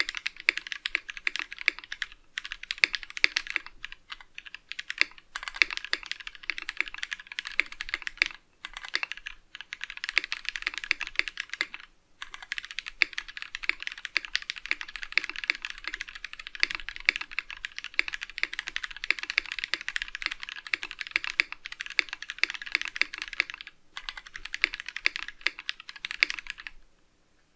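Fast, continuous typing on a Tofu60 mechanical keyboard with linear Gateron Yellow KS-3 switches. Brief pauses break it up a few times, and it stops shortly before the end.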